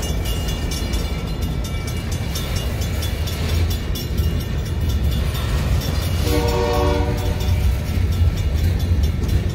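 Freight train cars rolling slowly past over the rails, a steady low rumble. About six seconds in, a short horn blast sounds for less than a second.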